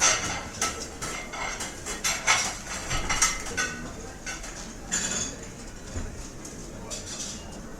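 Dishes and cutlery clattering: a quick run of clinks and knocks of plates and silverware, some with a short ringing tone, densest in the first few seconds and thinning out after.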